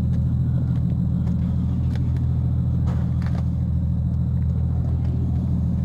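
A vehicle engine idling, a steady low rumble that does not change, with a few faint ticks.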